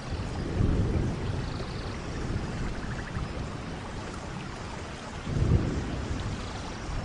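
Steady rush of falling water, with deep gusty rumbles swelling about half a second in and again around five and a half seconds in.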